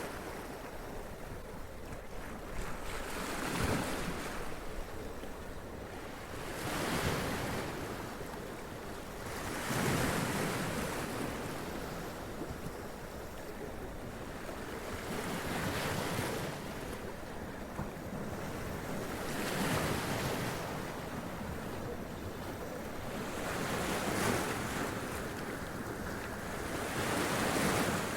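Sea waves splashing and running up onto rocks, each wash swelling and falling back, roughly every three to four seconds, over a steady sea hiss, with some wind on the microphone.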